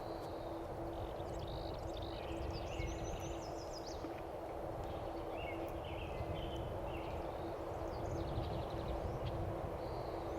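Small songbirds chirping and trilling again and again over a steady outdoor background noise, with a faint steady low hum beneath.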